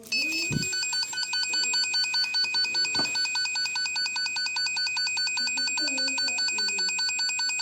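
Wire tracer receiver sounding its high electronic alert tone, pulsing rapidly without a break as it picks up the tracing signal on the hidden wire. The tone switches on abruptly at the start.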